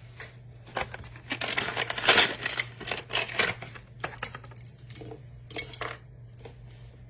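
Trading cards and their packaging handled on a table: an irregular run of clicks, taps and rustles, busiest in the middle, over a steady low hum.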